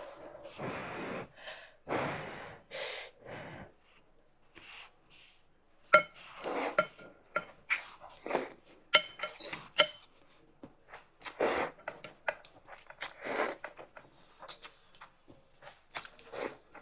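Thukpa noodle soup being slurped and eaten close to the microphone: several long noisy slurps, with sharp clinks of utensils against the bowl from about the middle on.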